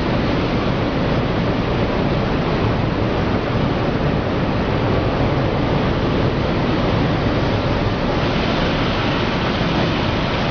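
Perlite expansion plant machinery running: a steady, even rushing noise with a strong low rumble.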